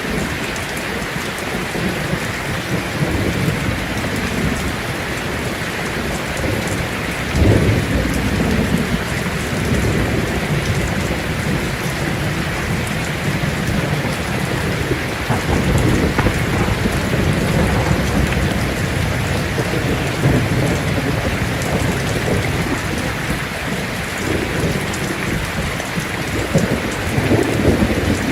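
Heavy rain falling steadily on a tin roof, with thunder rumbling under it: a sudden low clap about a quarter of the way in, and further rumbles near the middle and near the end.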